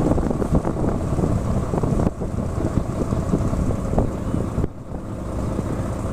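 Wind buffeting the microphone: a loud, uneven low rumble that eases briefly near the end.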